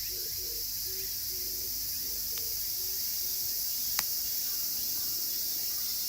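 Dense cicada chorus, a steady high-pitched shrilling. A low, repeated call fades out over the first three seconds, and a wood fire gives a sharp pop about four seconds in.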